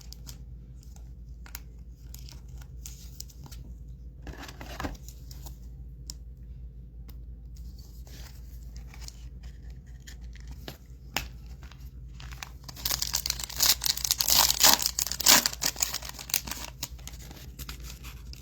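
Foil trading-card pack being torn open: a loud crinkly tearing about thirteen seconds in that lasts about three seconds, after soft clicks and rustles of cards being handled.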